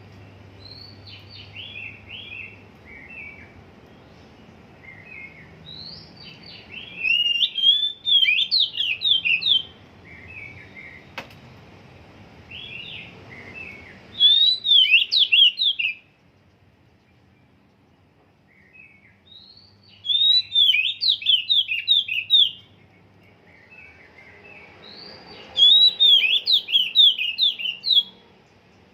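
Oriental magpie-robin (kacer) singing: four loud bursts of rapid, high chirping notes, each a couple of seconds long, with softer scattered notes between them. The bird's song is still unsettled, not yet a finished song.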